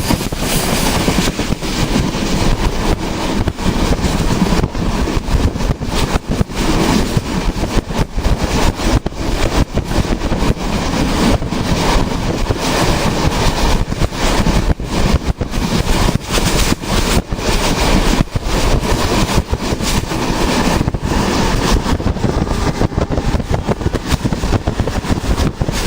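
Train running: a loud, dense, continuous rumble with many brief dips.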